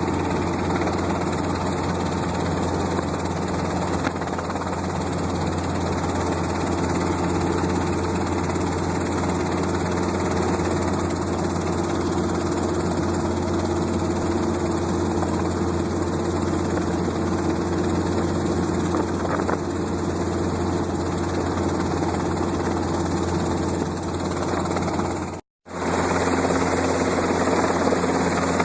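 Helicopter in flight, its engine and rotor running as a steady drone. The sound cuts out for a moment near the end.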